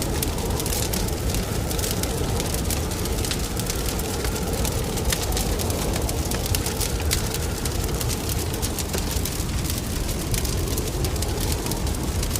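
Wood fire crackling in a fireplace: many small sharp pops over a steady low rush of burning.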